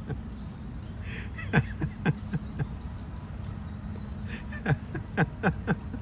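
Outdoor ambience: faint bird chirps over a low steady hum, broken by irregular sharp knocks in two short clusters, about a second and a half in and again near the end.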